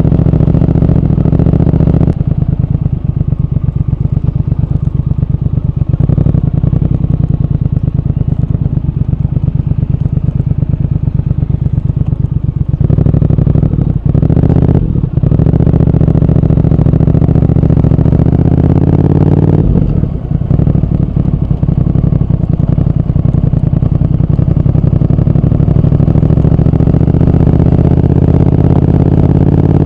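Triumph Speed Twin 1200's parallel-twin engine and exhaust running under way, loud and steady. Around twenty seconds in the sound briefly dips, then the engine pitch rises steadily as the bike accelerates.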